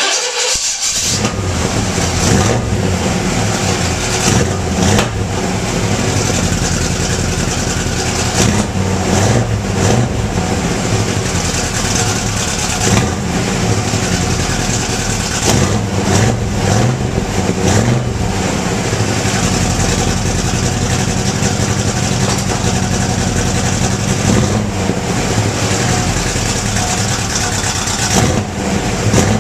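Exhaust of a cammed Pontiac 400 V8 in a 1977 Firebird, running steadily with brief throttle blips several times along the way.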